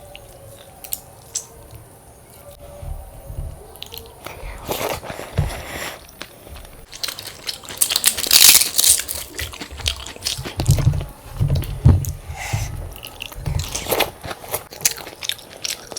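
Close-up crunching bites and chewing of crisp fried food, a run of sharp irregular crunches that is loudest about halfway through.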